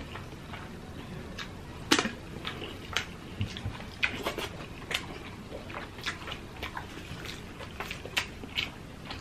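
Close-up eating sounds of people chewing fried milkfish: an irregular run of sharp clicks and crackles of chewing and mouth noises, the loudest about two seconds in.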